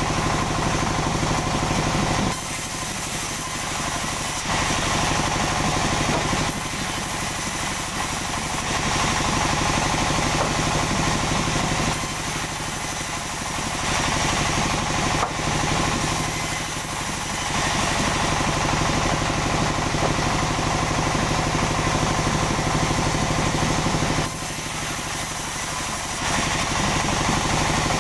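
Sawmill machinery running continuously as large sengon logs are sawn: a steady engine drone under a saw's hiss. The sound changes every few seconds as cuts begin and end.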